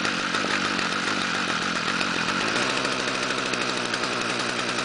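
Stihl FS-45 string trimmer's small two-stroke engine running steadily without revving, shortly after a cold start in sub-zero cold. Its throttle cable is stuck.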